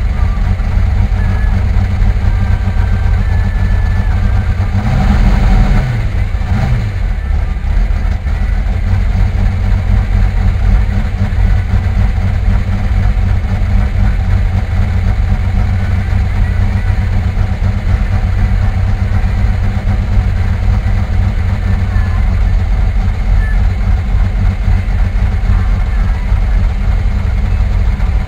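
A car's engine running steadily with a low rumble while driving, the engine note briefly rising and falling about five to six seconds in.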